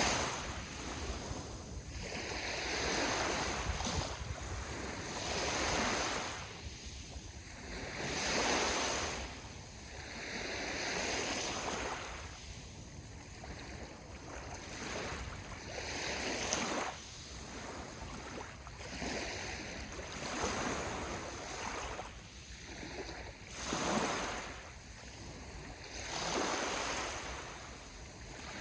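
Sea waves washing onto the shore, one swell rising and falling every two to three seconds, over a steady low rumble.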